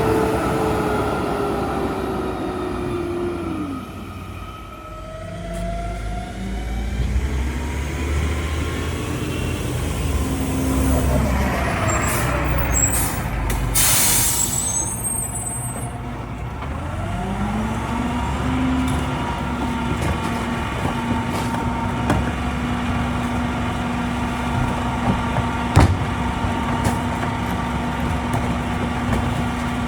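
Diesel engine of a Mack LEU rear-loader garbage truck: the revs fall away over the first few seconds, then rise again and hold steady. There is a short, sharp air-brake hiss about halfway through.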